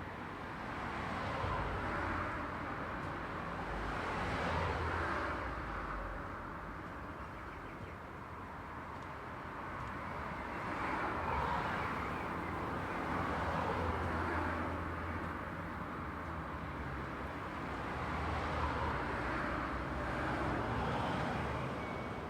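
Road traffic: cars passing one after another, each a swell of noise that rises and fades over a few seconds.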